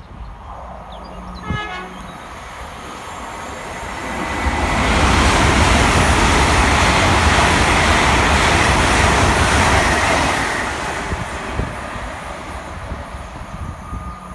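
A passenger train sounds a short horn blast about a second and a half in as it approaches, then passes at speed. The rush of wheels on rail and air builds from about four seconds in, stays loud for some six seconds and fades away near the end.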